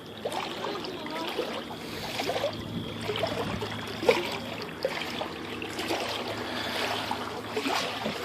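Floodwater sloshing and splashing as a person wades through it about waist-deep, with irregular splashes from each stride.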